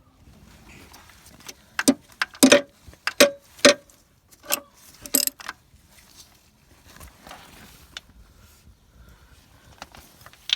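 Hand tools clinking against metal: a run of sharp, irregular metallic knocks and clinks with a short ring, bunched in the first half, then a few fainter ticks.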